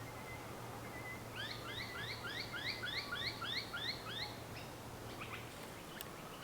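A bird calling: a quick run of about ten short rising notes, starting about a second and a half in and lasting about three seconds. A faint steady low hum lies underneath.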